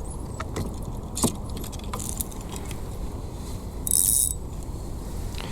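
Small clicks and rattles of fishing gear being handled on a kayak after a lost rig, with a short hiss about four seconds in.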